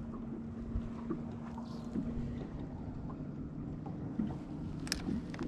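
Steady low hum of a boat motor, its pitch stepping up about halfway through, with one sharp click near the end.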